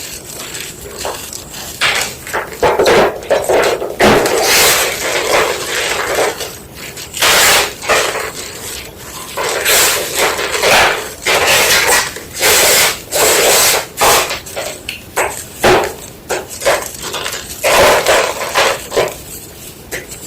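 Block of white gym chalk being crushed: a run of irregular crunches and crumbles, some short and some longer, with brief pauses between.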